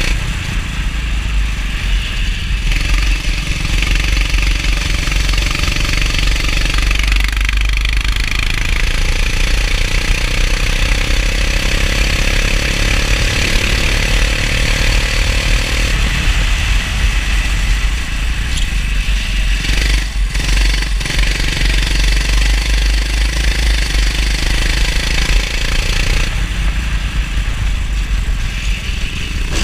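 Go-kart engine running on track in the wet, its note climbing for a few seconds midway, under a steady hiss and a heavy low rumble on the microphone.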